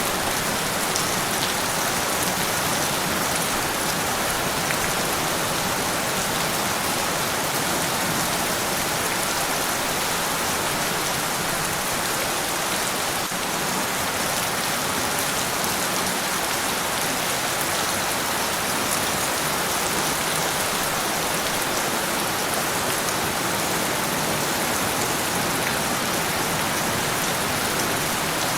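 Steady rain falling, an even hiss of many drops with a scatter of individual drop ticks.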